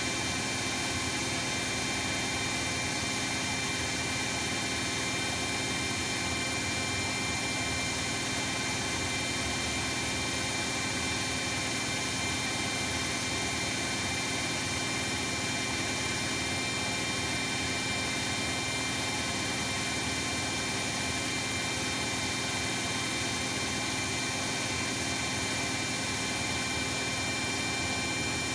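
Bosch WAE24162GB washing machine spinning steadily at high speed: an even rushing noise with a constant whine, no changes in speed or pauses.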